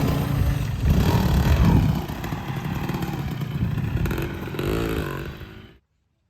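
Two-stroke engine of a Kawasaki KMX 125 dirt bike running under throttle, its pitch rising and falling as it revs near the end, then cut off abruptly.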